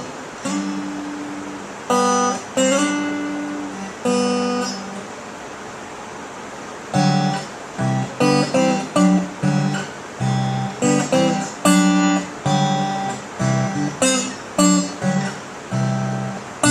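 Acoustic guitar strumming chords as a song's instrumental intro: a few chords left ringing at first, then a steady rhythmic strum from about seven seconds in.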